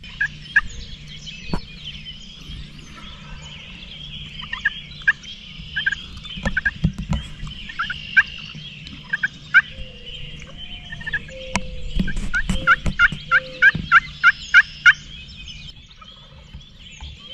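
Eastern wild turkey gobblers gobbling again and again from the roost before fly-down, more than one bird, with a quick run of gobbles near the end.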